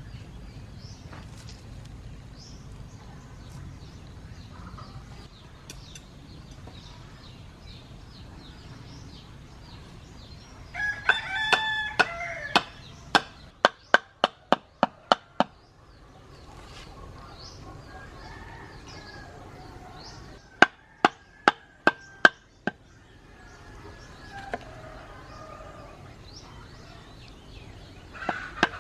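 A rooster crows once, about eleven seconds in, among chickens and faint small-bird chirps. Two runs of sharp, regular chopping strokes follow, about four a second, each lasting a couple of seconds.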